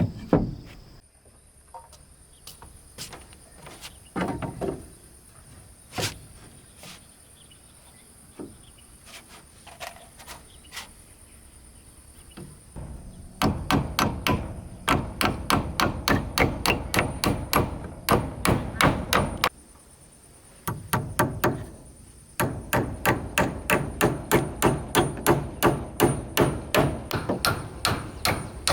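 Hammer striking wood in fast, even blows, about four or five a second, in two long runs through the second half, with scattered single knocks before them.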